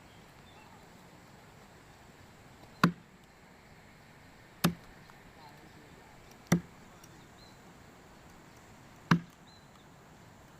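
A hand tool striking hard, four separate chopping blows about two seconds apart at an uneven pace.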